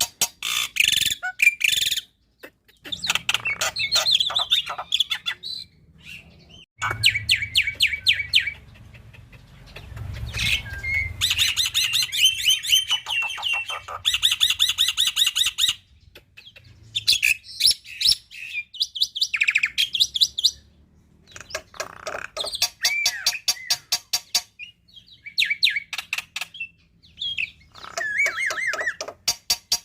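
Black-winged myna (jalak putih) singing: rapid rattling trains of clicks and chattering notes mixed with short whistled glides, delivered in phrases a few seconds long with brief pauses between them.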